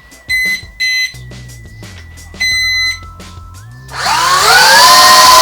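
Toy quadcopter drone beeps three times, then its four motors spin up loudly, their pitch climbing.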